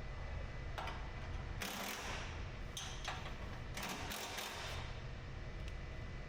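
Ratchet wrench working bolts on a car's rear bumper reinforcement bar, in several short bursts of ratcheting, over a steady low hum.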